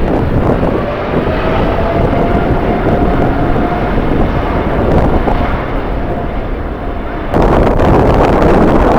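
Distant airliner jet engines running with a faint steady whine, under strong wind buffeting the microphone. About seven seconds in, the noise suddenly jumps louder.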